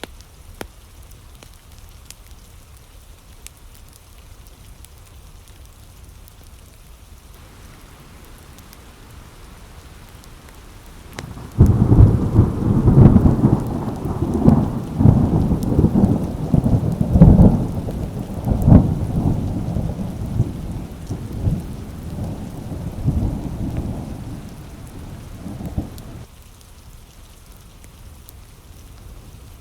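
Steady rain falling; about eleven seconds in, a loud roll of thunder breaks in suddenly and rumbles on in repeated swells for about fifteen seconds, fading away until only the rain is left.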